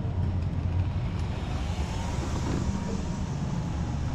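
Steady low rumble of background noise with a faint, thin high tone above it.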